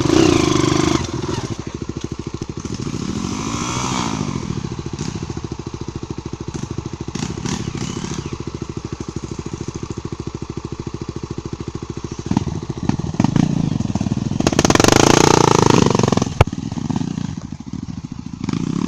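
Single-cylinder four-stroke trail motorcycle engine running at a steady low pace on a dirt trail. Its pitch dips and rises briefly near the start, and a burst of throttle about fifteen seconds in is the loudest part, cut off by a sharp knock.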